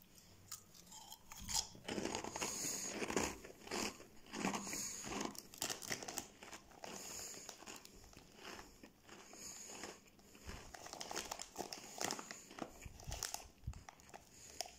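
A person chewing crunchy Fonzies corn-and-cheese puff sticks close to the microphone, with irregular crunches throughout.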